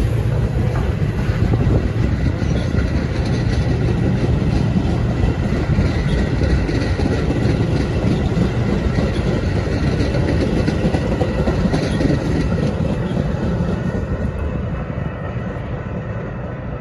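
A train passing close by, a steady loud rumble of wheels on rail that eases off in the last few seconds.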